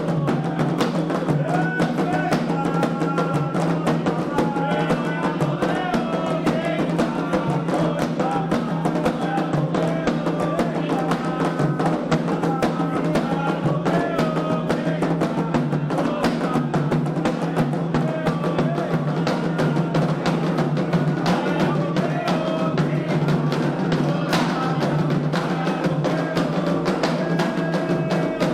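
Candomblé ritual music: continuous, dense hand drumming on atabaques with a bright bell or wood-block pattern, and voices singing a melodic chant over it.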